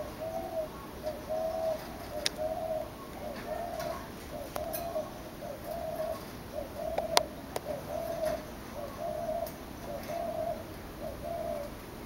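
A bird's soft cooing note repeated steadily, about one every three-quarters of a second, stopping shortly before the end. A few sharp clicks of claws and beak on the wire cage bars as the lovebird climbs, the loudest about seven seconds in.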